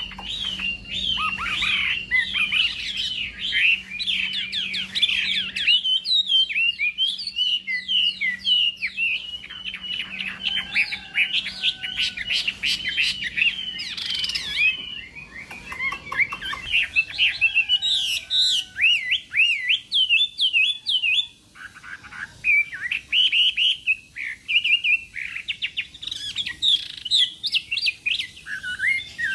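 Chinese hwamei (laughingthrush) singing its contest song: a long, rapid, loud run of varied whistled notes and slurred glides, with a brief pause a little past the middle.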